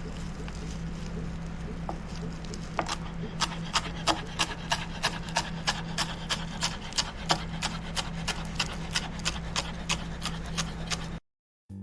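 Sharp knocks at an even pace of two to three a second over a steady low hum, starting about three seconds in and cutting off abruptly near the end.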